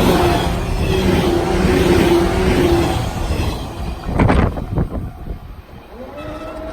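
A JR Nanao Line electric train passing over a level crossing: the loud rumble of the cars going by, with a steady tone on top, fades about three seconds in. A quick cluster of sharp clacks follows about four seconds in, as the last wheels cross the rail joints, and a steady tone sets in near the end.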